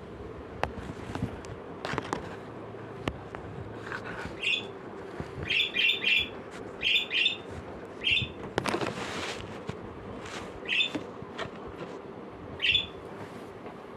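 Pet parrot giving short, high chirps, singly and in quick runs of two or three, with a few sharp clicks early on and a brief rustle near the middle.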